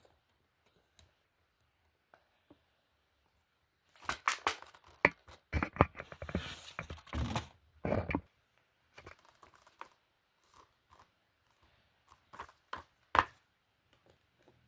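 Handling noise from plastic disc cases and their packaging: a dense run of clicks and crinkling about four seconds in, lasting about four seconds, then scattered single clicks.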